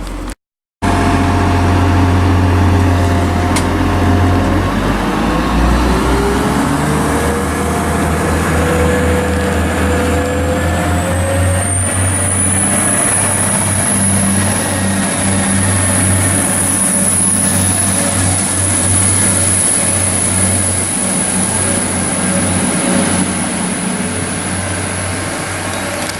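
Diesel train engine running steadily with a low rumble, starting abruptly just after the sound cuts out for a moment. About ten seconds in, a high whine rises in pitch and then holds steady, along with a lower tone.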